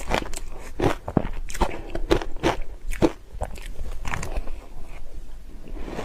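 A person biting and chewing ice close to the microphone: rapid, irregular crunches, several a second, with a short lull about five seconds in.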